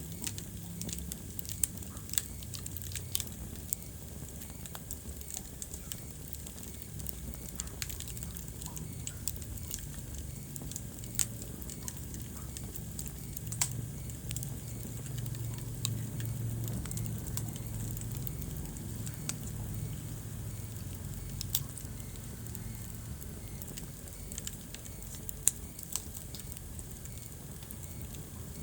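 Wood fire crackling in a fireplace: irregular sharp pops and snaps, with a handful of louder pops scattered through, over a low steady rumble of the burning.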